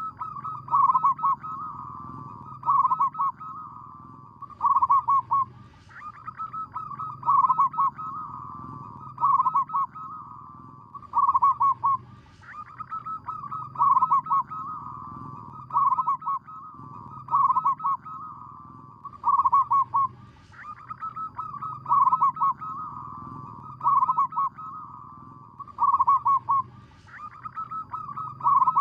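Zebra dove (perkutut) cooing: a rhythmic series of rapid, bubbling coos with loud phrases about every two seconds, in a pattern that comes round again every six to seven seconds.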